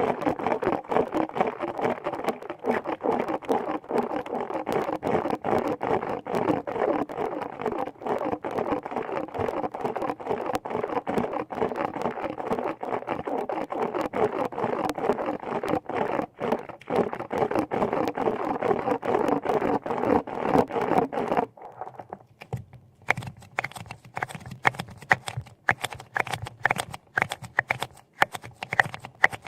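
Dense, rapid close-up scratching and crackling that stops abruptly about two-thirds of the way through, giving way to quieter, scattered light clicks and taps.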